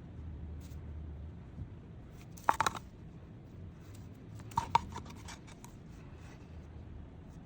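Two short clusters of sharp clicks and taps, about two seconds apart, of a hard tool knocking against the resin-coated thali plate while the resin is spread, over a steady low hum.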